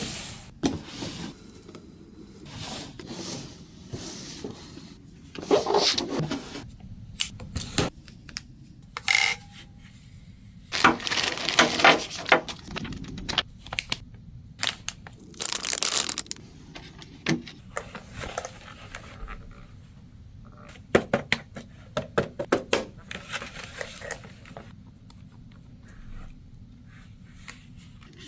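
Packaging being unboxed and handled: irregular bursts of tearing, crinkling and scraping with sharp clicks, from box and wrapping being opened.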